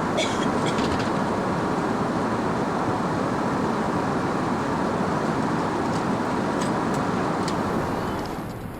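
Steady rushing cabin noise inside an Airbus A380 in flight, with a few faint clicks. It dips slightly near the end.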